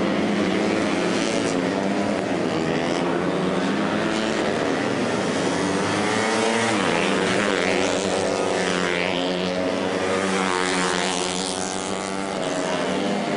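Racing motorcycle engines running at high revs, several at once, their pitch rising and falling as they accelerate and shift through the middle of the stretch.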